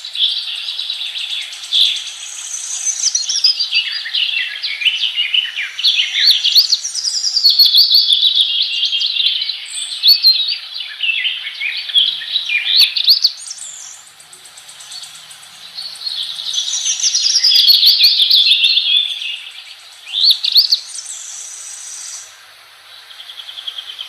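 Several small cage birds chattering and warbling together, a dense run of quick rising and falling chirps that thins out briefly twice.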